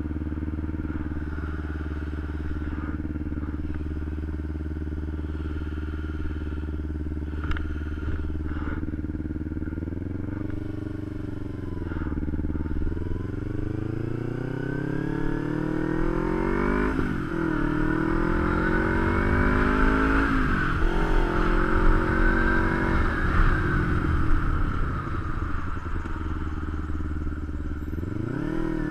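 Kawasaki Ninja 250 parallel-twin engine idling steadily for about ten seconds, then revved briefly. It then pulls away, rising in pitch through the gears with a dip at each shift, and eases off near the end.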